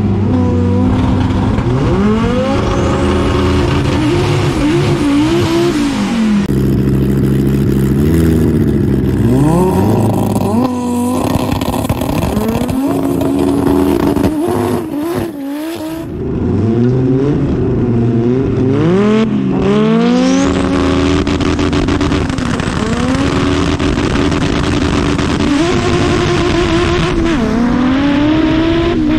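Audi coupé drag car's engine revving and accelerating. Its pitch climbs and drops again and again, as in gear changes, with a few abrupt cuts.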